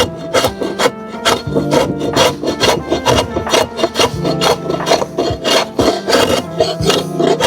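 Hand tool scraping or rasping across wood in quick repeated strokes, about four a second, over background music.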